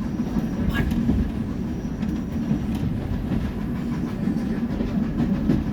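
Steady low rumble of a steam-hauled passenger carriage rolling along the track, heard from inside the coach, with a faint click about a second in.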